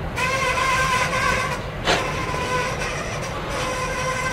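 Lumber-loaded freight cars rolling slowly on the rails, a low rumble under a steady, wavering high squeal from the wheels. A single metallic clunk comes about two seconds in.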